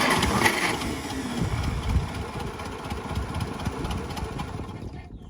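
Four-cylinder engine being cranked over on its starter after its spark plug wires were reconnected in the 1-3-4-2 firing order, running unevenly and dying away near the end.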